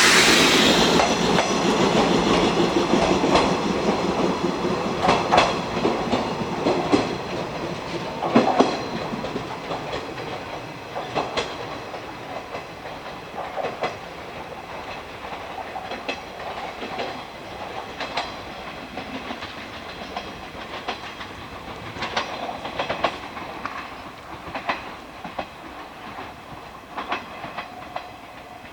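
A train running away along the track, its wheels clicking over the rail joints every second or two as it fades into the distance.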